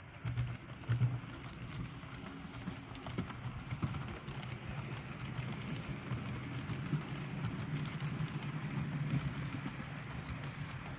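Model railway locomotive running along the layout: a steady low hum from the loco with a patter of small clicks as its wheels run over the track.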